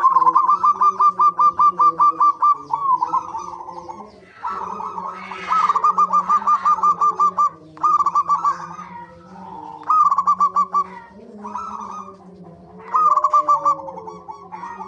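Zebra doves (perkutut) calling: bursts of quick staccato cooing notes, about eight a second, with more than one bird overlapping. A long run opens, then shorter bursts follow every second or two.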